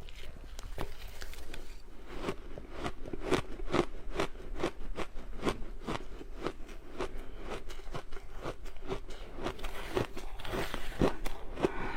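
Crunchy ice being bitten and chewed close to the microphone: a steady run of crisp crunches, about two or three a second.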